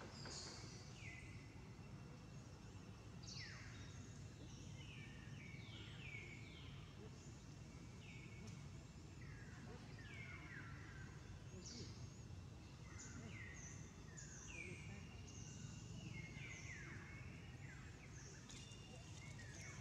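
Faint birdsong in the forest: many short, high-pitched whistled notes, mostly sliding downward, scattered throughout over a low, steady background rumble.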